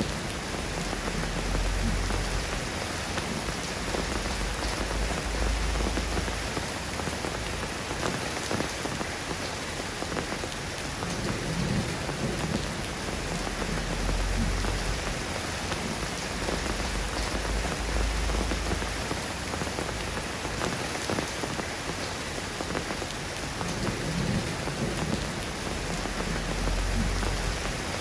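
Steady rain falling on a hard surface, a dense even patter of drops. Low rumbling swells come and go every few seconds beneath it.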